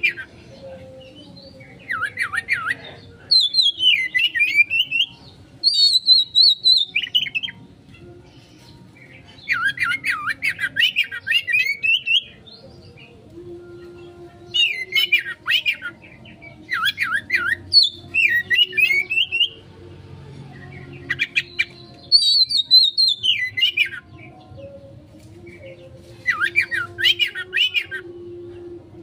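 Oriental magpie-robin (kacer) singing in loud bursts of fast, scratchy trills and whistles, each phrase lasting one to two seconds with short pauses between. A faint low steady hum lies underneath.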